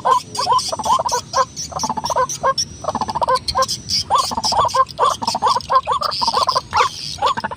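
White-breasted waterhen (ruak-ruak) calling: a long run of short repeated notes, a few a second, broken by brief pauses.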